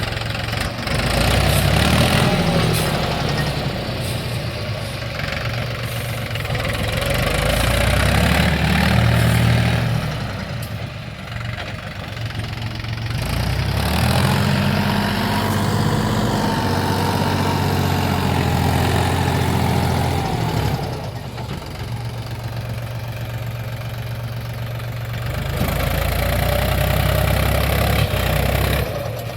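Mahindra tractor's diesel engine running, revving up four times for a few seconds each and settling back to a lower speed in between.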